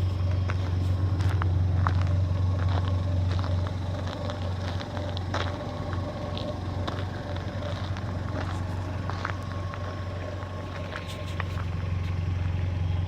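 VW Polo 1.4 engine idling through an aftermarket sports exhaust: a steady low drone that holds one pitch, with scattered faint clicks over it.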